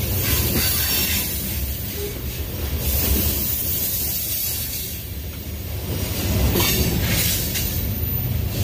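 Covered hopper cars of a Union Pacific manifest freight train rolling past at close range. A steady low rumble of wheels on rail runs under a high rushing noise that swells and eases, with a few sharper clacks.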